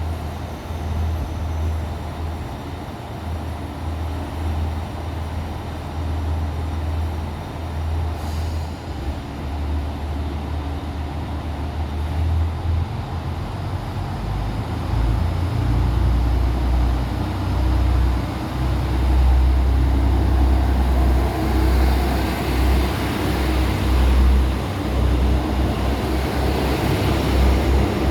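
Diesel engines of a KTR8000 series railcar running with a steady low rumble, growing louder over the second half, with more rattling, hissing noise toward the end.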